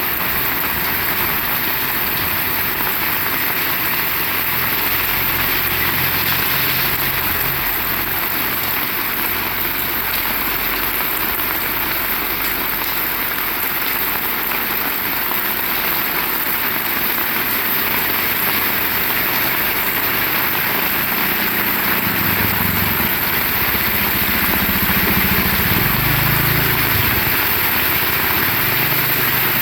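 Heavy rain falling steadily. A low rumble comes in briefly around five seconds in and again for several seconds near the end.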